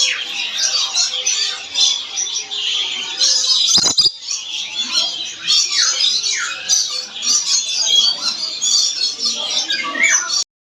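Lory (nuri) squawking and chattering without pause, with several short falling calls mixed in. A sharp click comes about four seconds in, and the sound cuts off abruptly near the end.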